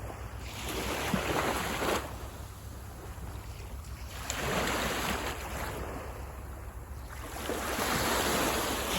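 Small waves breaking on a sandy beach: three washes of surf, each swelling and fading over a second or two, with a steady low rumble beneath.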